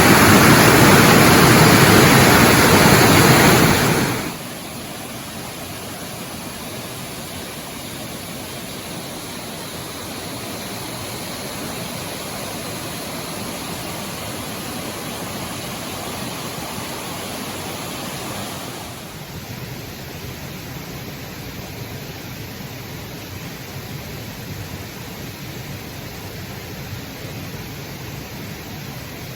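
Rushing water of a waterfall, a steady hiss-like roar that drops sharply in level about four seconds in and carries on quieter after that.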